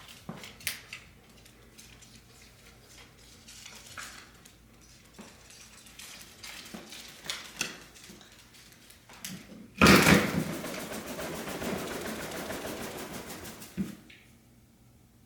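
Light clicks and taps, like claws on a hard floor. About ten seconds in comes a sudden loud, harsh rattling noise lasting about four seconds, then it stops.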